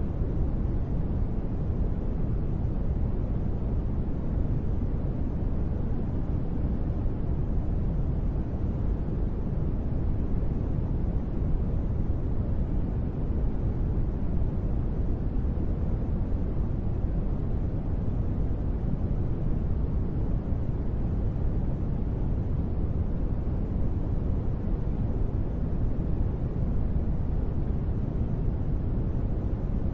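Steady, even rushing noise from a sleep white-noise track sold as gentle rain, weighted low like a deep rumble. No separate drops or patter stand out, and it does not change.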